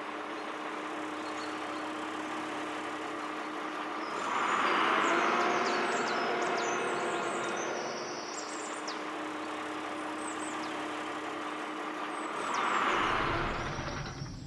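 A motor running with a steady hum and hiss, growing louder twice, about four seconds in and again near the end, with faint high chirps over it.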